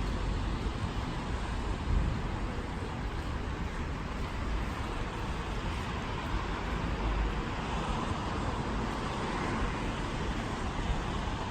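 Steady rain-and-traffic noise of a wet city street, with a car's tyres hissing past on wet pavement, swelling from about eight seconds in.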